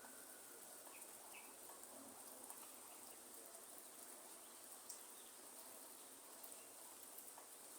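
Faint rainforest ambience: light rain pattering, with a few separate drop ticks, under a steady high insect drone and a few short, faint bird chirps.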